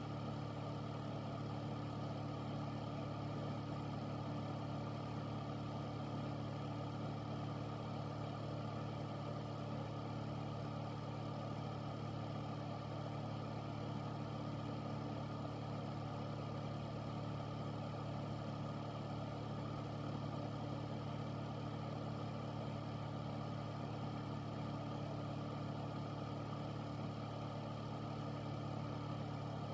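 Air filter running steadily: a constant fan whoosh over a low, even hum.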